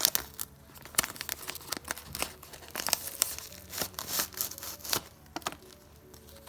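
Crinkling and rustling of something being handled: an uneven run of sharp crackles that thins out near the end.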